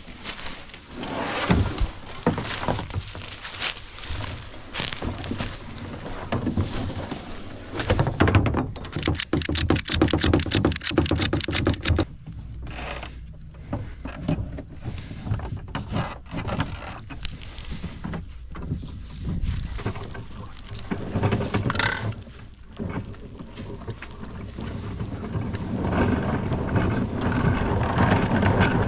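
Irregular knocks and scrapes of a kayak and its paddle, with a fast rattling scrape running for a few seconds about a third of the way in and a steady rushing noise building near the end.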